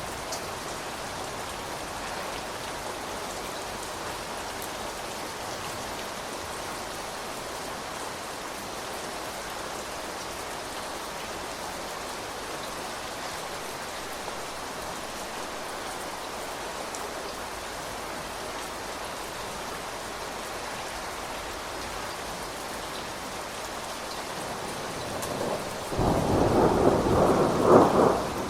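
Steady rain falling, an even hiss of drops. Near the end a loud rumble of thunder swells in and becomes the loudest sound.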